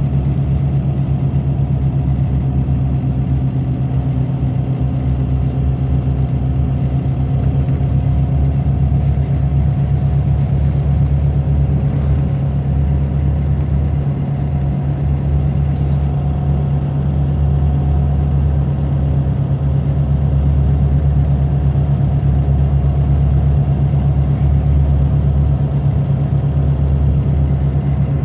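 Scania DC9 five-cylinder diesel in a Scania K94 bus, running with a steady low drone that stays at an even level throughout.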